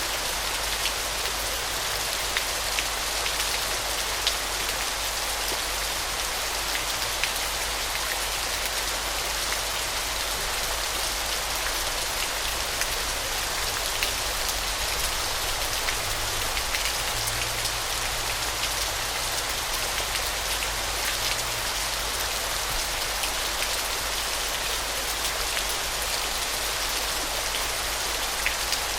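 Falling water splashing in a steady, even hiss, sprinkled throughout with tiny droplet ticks, over a low steady rumble.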